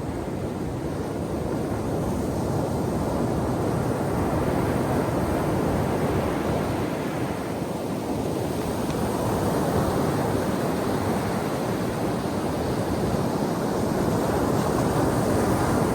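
Ocean surf breaking on a beach: a continuous wash of waves, swelling and easing in slow surges, with some wind buffeting the microphone.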